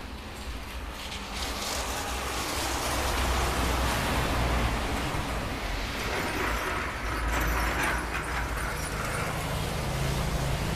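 Steady rain hiss, swelling over the first few seconds, with a low rumble underneath.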